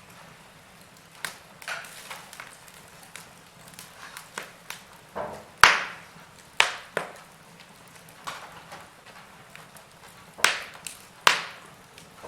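Wood fire in a fireplace crackling, with irregular sharp pops over a faint steady hiss; the loudest pops come a little past halfway and again near the end.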